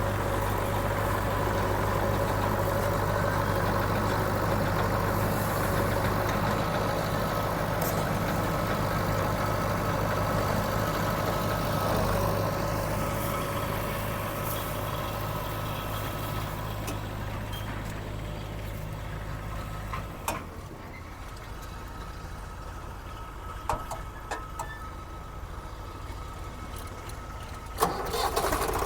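Heavy-machinery diesel engine running steadily with a low hum. About two-thirds of the way through it drops away to a quieter, lower rumble, and a few sharp knocks follow.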